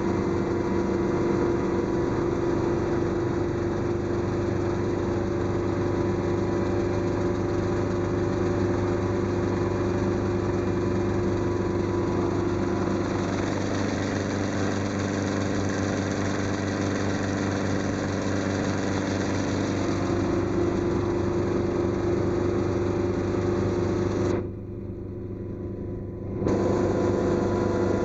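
Helicopter engine and rotors running steadily, heard on board, with a constant drone and a steady hum. Near the end, the sound drops and thins for about two seconds, then comes back.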